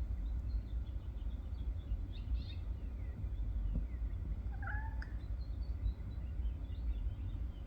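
A house cat gives one short chirping meow about halfway through, against faint, scattered bird chirps. A steady low rumble runs underneath.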